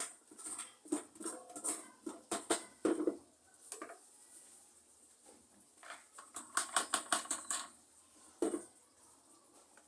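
Clicks, taps and rustles from handling pots and soil while repotting a plant, with a quick run of clicks about seven seconds in and a single knock shortly after.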